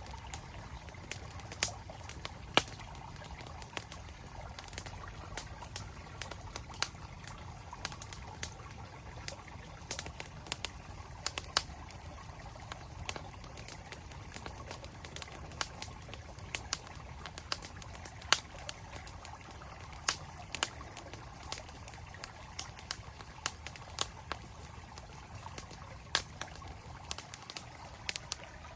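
Campfire crackling with frequent sharp, irregular pops over the steady rush of a mountain stream.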